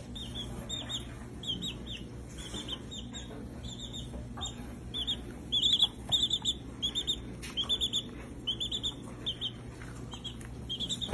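A chick peeping over and over: short high chirps that come several a second, often in quick runs of two to four.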